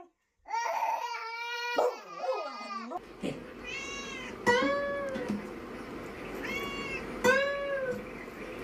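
A cat meowing: a long drawn-out cry, then, after a cut, four short meows that rise and fall in pitch over a faint background hiss.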